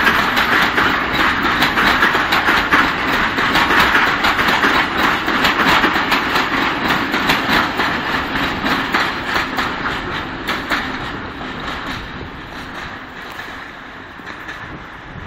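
Freight train of open high-sided wagons rolling past, wheels clicking rapidly over the rail joints under a steady rolling noise. It fades steadily over the last few seconds as the train moves away.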